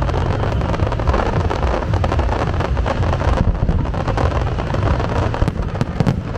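Fireworks display: a dense, rapid crackle over a continuous low rumble, with a few sharper reports near the end.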